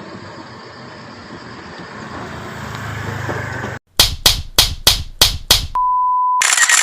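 A steady low machine rumble that builds for a few seconds and cuts off abruptly. It is followed by six sharp hits, about three a second, a half-second steady beep, and a short burst of hiss.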